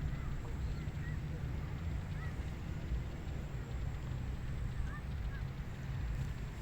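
Wind blowing steadily, with a heavy low rumble, and a few faint short bird chirps over it.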